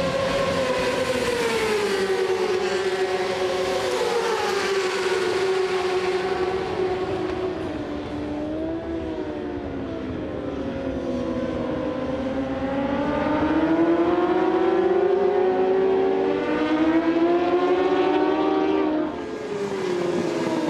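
Racing superbike engines at speed, the pitch falling and rising in long sweeps as the bikes brake and accelerate through the gears, with a sudden drop in pitch and level near the end.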